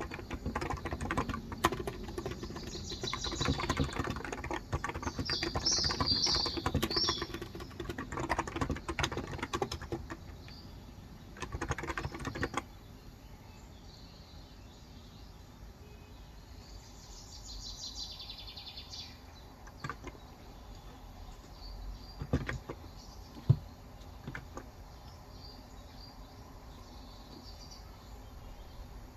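Fast typing on a Cox Endeavor tenkeyless electro-capacitive (non-contact) keyboard with 35 g switches, a dense run of keystrokes that stops about twelve seconds in, leaving only a few scattered key presses. Birds chirp in the background, around 3–7 seconds and again around 17–19 seconds.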